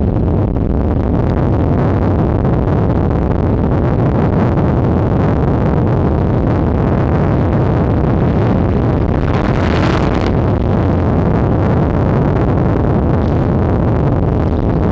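Steady rumble of a car on the move, engine and road noise, with a brief louder hiss about ten seconds in.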